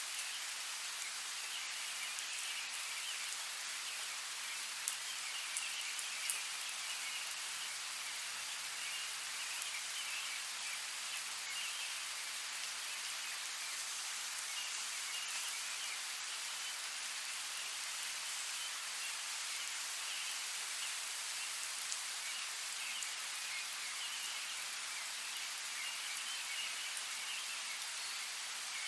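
Steady rain falling, an even hiss with a few sharper drop ticks about five to six seconds in.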